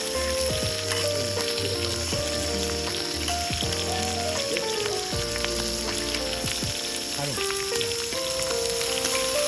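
Food sizzling and crackling in hot oil in a pan, cooking to a crisp, with background music of held notes over it.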